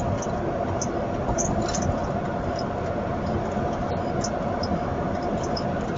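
Steady vehicle driving noise: a low rumble with a constant hum and faint scattered high ticks.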